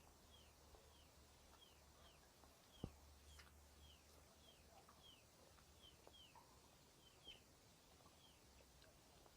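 A small songbird calling faintly, repeating a short falling chirp about twice a second. A single sharp click sounds about three seconds in, over a faint low rumble.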